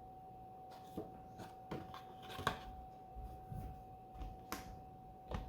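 Handling noise: scattered light clicks and taps, the strongest about halfway through, over a faint steady high hum.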